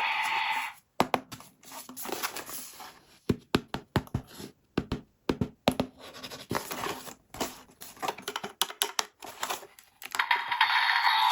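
Hands tearing and crinkling toy packaging in a run of irregular sharp crackles and clicks. Music cuts off about a second in and starts again near the end.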